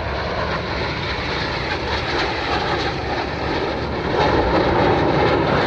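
Jet aircraft taking off at maximum power: a loud, steady rush of engine noise that grows louder about four seconds in.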